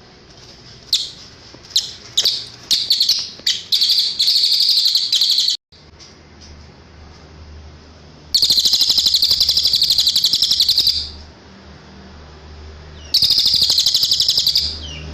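A cililin songbird singing: a few separate high chirps that speed up into a fast trill, which breaks off suddenly, then two long, rapid, high trills.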